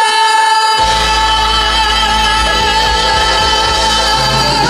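Live musical-theatre song: a singer holds one long high note, and a bass-heavy accompaniment comes in under it about a second in.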